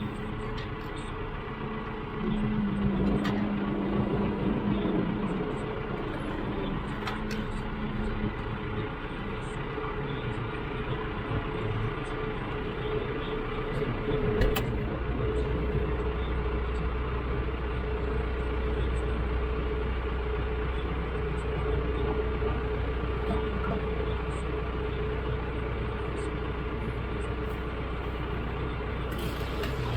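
Farm tractor engine running steadily. About halfway through there is a knock, and after it the low drone grows heavier.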